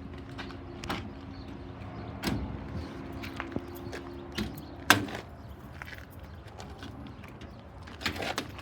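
A door or lid being handled: scattered clicks and knocks, with one loud clunk about five seconds in and more clatter near the end. A steady low hum underneath stops just before the clunk.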